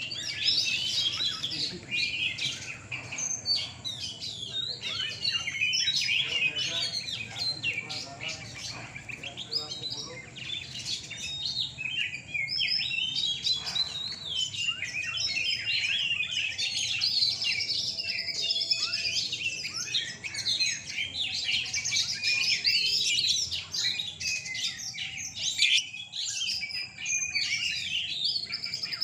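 Several oriental magpie-robins (kacer) singing at once, a dense, unbroken tangle of overlapping whistles, trills and chirps.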